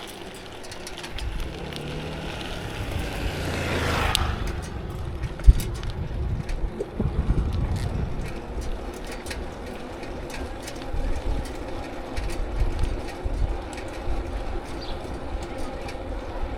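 Road traffic heard from a moving bicycle, with a low rumble throughout. A vehicle draws closer and passes about four seconds in, and a sharp knock follows shortly after.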